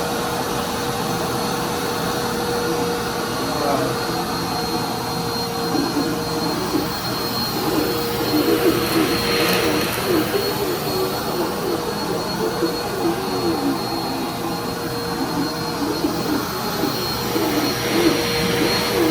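Dirt Devil Endura Compact bagless upright vacuum cleaner running, a steady loud motor hum with a high whine. From about six seconds in the lower tone starts to waver as the vacuum is worked over carpet.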